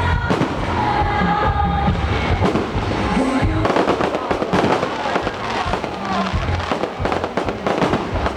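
Aerial fireworks bursting and crackling in quick succession, thickest in the second half, with music playing alongside.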